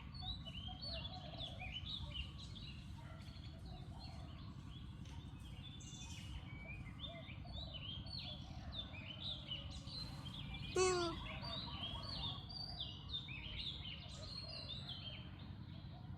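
Many short, high chirping animal calls throughout, over a low steady rumble. About two-thirds of the way through comes one louder call that falls in pitch.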